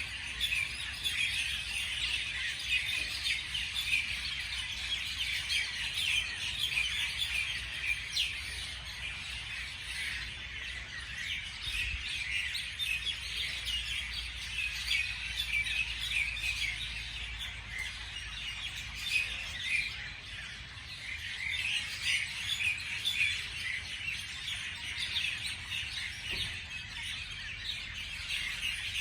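Many small birds chirping and singing at once, a dense, continuous chorus of short high chirps and trills.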